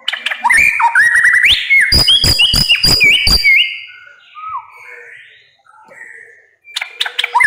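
White-rumped shama singing: a loud bout of rapid clicking notes woven with rising and falling whistles, then softer, quieter phrases, and another loud bout starting near the end.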